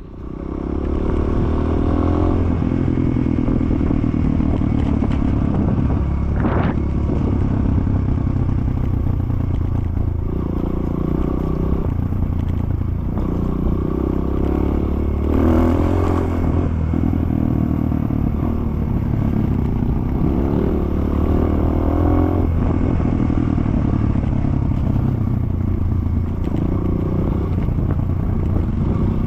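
Dirt bike engine running hard under load. It picks up in the first second, then its revs rise and fall in repeated surges, with some clattering.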